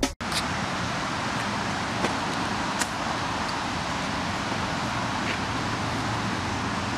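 Steady rushing road and engine noise of a moving car, with a few faint clicks.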